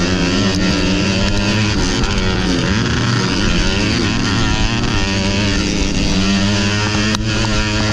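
Modified underbone motorcycle engine under race load, its pitch rising and falling repeatedly as the rider works the throttle and gears.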